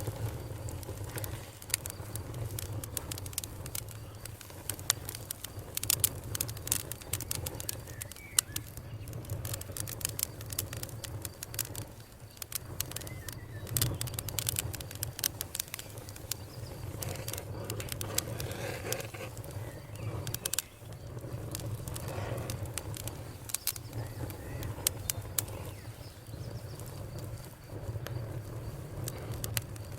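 Campfire burning, with frequent irregular crackles and pops over a steady low sound of the fire.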